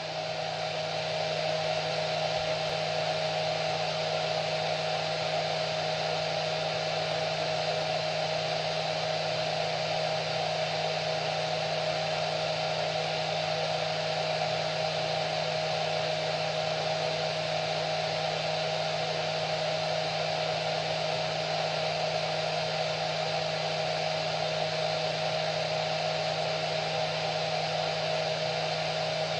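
Hair dryer running continuously: an even rush of blown air with a steady motor whine and hum. It fades in over about the first second and then holds without change.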